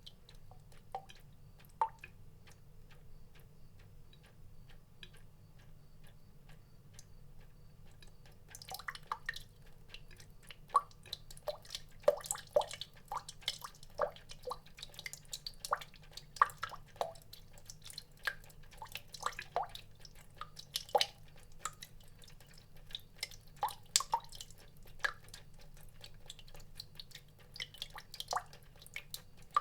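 Water drops dripping, each a short plink. The drops fall sparsely at first and come much more often from about nine seconds in, over a faint steady low hum.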